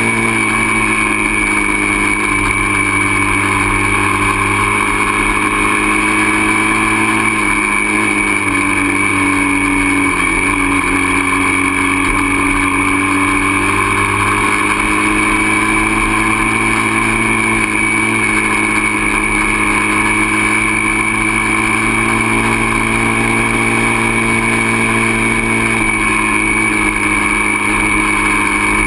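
Dirt bike engine running steadily and loudly, its pitch shifting slightly up and down with the throttle.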